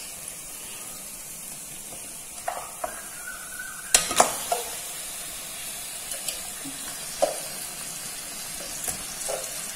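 Onion-tomato masala with chilli powder and spices sizzling gently in a pan while a spatula stirs it, with a few sharp knocks of the spatula on the pan. It is being sautéed until the raw smell of the spices is gone.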